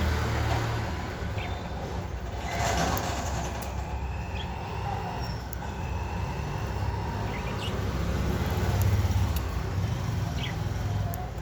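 Budgerigars giving a few faint, short chirps over a low, steady rumble.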